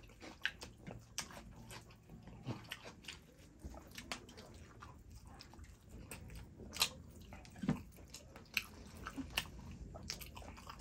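Close-miked eating sounds of fried chicken being bitten and chewed, with irregular crisp clicks and smacks.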